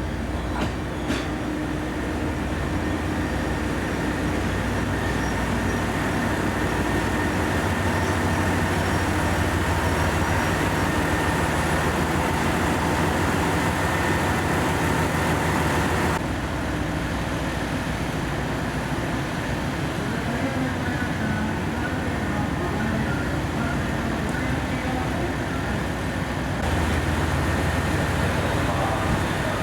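Diesel engines of a KiHa 189 series diesel multiple unit running with a steady low hum, the sound changing abruptly twice as the shot changes.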